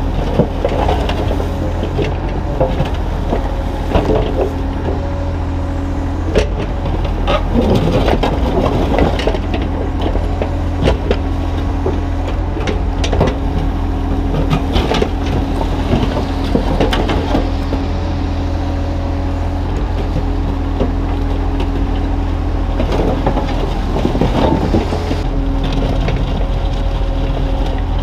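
Kubota U35-3 mini excavator's diesel engine running steadily under work, with a tone that comes and goes as the hydraulics are worked, and scattered knocks and scrapes of broken concrete chunks being moved with the bucket.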